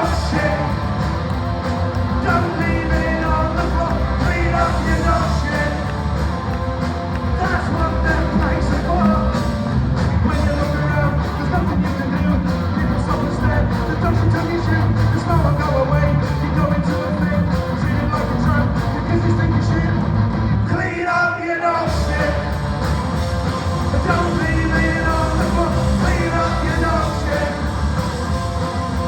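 Live punk rock band playing loudly with vocals, the bass and drums dropping out briefly about two-thirds of the way through before the band comes back in.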